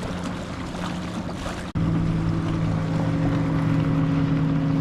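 A boat's motor running steadily, with faint wind and water noise. It cuts off abruptly about two seconds in and resumes straight away, louder and steady.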